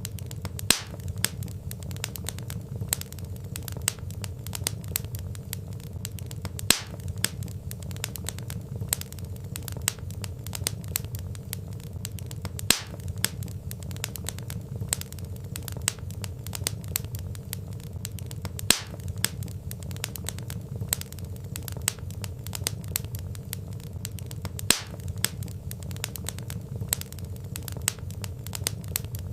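Wood fire with logs crackling: a constant run of small sharp crackles over a low steady rumble, with a louder pop about every six seconds.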